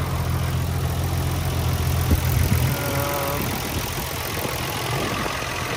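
Nissan Skyline R34 GT-R's RB26DETT twin-turbo straight-six idling steadily, with a light tapping that sounds the same as most GT-R engines. There is one sharp click about two seconds in.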